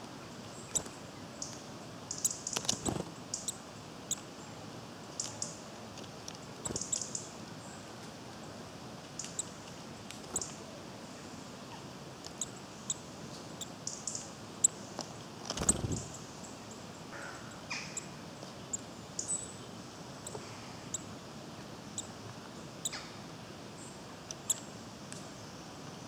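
Small woodland birds giving short, high chirps and calls scattered throughout, over a quiet outdoor background, with a few dull thumps, the clearest about three seconds in and about two-thirds of the way through.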